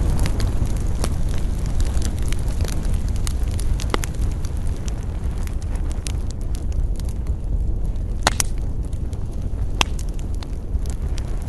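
Campfire crackling and popping, with a steady low rush underneath and a couple of sharper pops about eight and ten seconds in.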